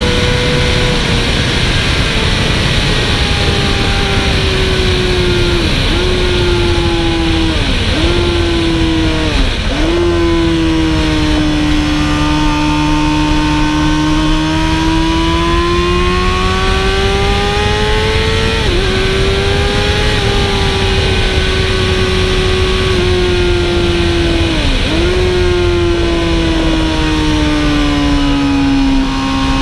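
Sport motorcycle engine at racing speed on a track, heard close over heavy wind rush. The engine note falls through a quick run of gear changes, climbs steadily through a long corner, steps down at another shift, then runs through a second run of shifts.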